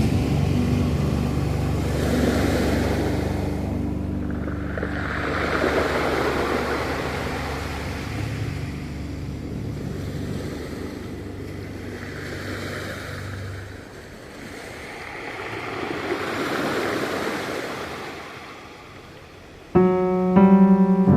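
Ocean waves washing ashore in slow recurring swells, under calm background music whose low sustained notes fade out about two-thirds of the way through. New music starts abruptly near the end.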